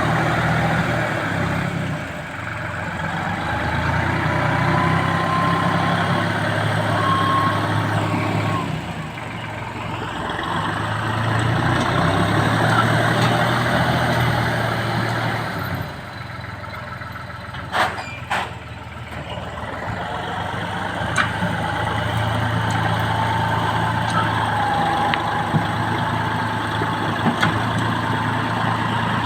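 Massey Ferguson MF4707 tractor's diesel engine running, its level swelling and dipping every few seconds, with a couple of sharp clicks a little past the middle.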